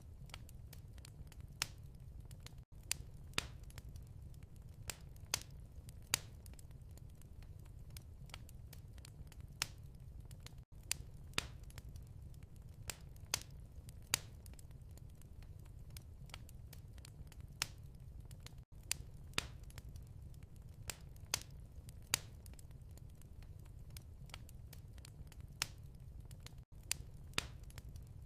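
Wood fire crackling in a fireplace: irregular sharp pops and snaps over a steady low rumble of flames, with a brief dropout about every eight seconds.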